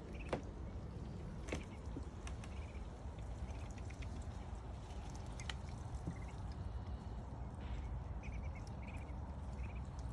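Rain dripping and pattering with scattered sharp drop ticks, and a few faint high peeps from ducklings.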